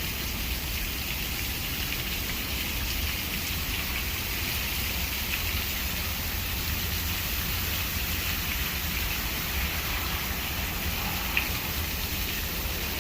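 Heavy rain falling steadily, a dense even patter of drops, over a constant low rumble of strong wind.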